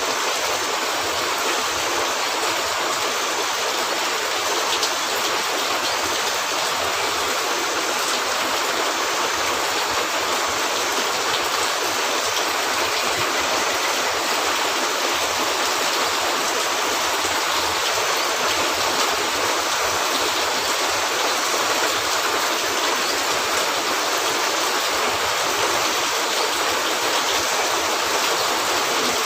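Steady heavy rain falling on a cabin roof, an even unbroken hiss.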